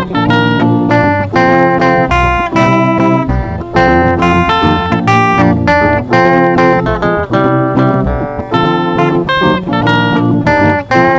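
Guitar music playing: plucked, picked guitar notes in a quick, steady run.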